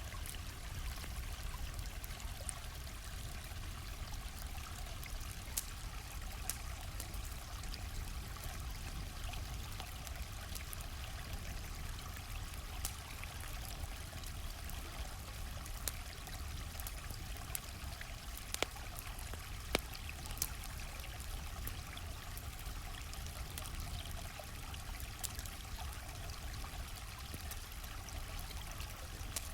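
Stream flowing steadily, mixed with a campfire's scattered sharp crackles and pops, a few louder pops around the middle.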